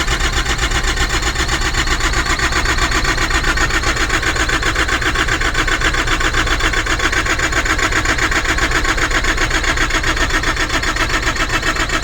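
Transport refrigeration unit's diesel engine cranking on its starter with a fast, even rhythm and not firing, despite being primed and the battery charged.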